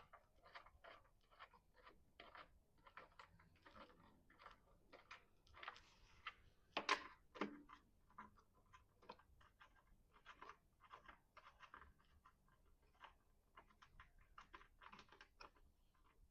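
Faint, irregular clicks, taps and rattles of hand tools and small parts while a lawn mower's carburetor is taken apart, with one louder clack about seven seconds in.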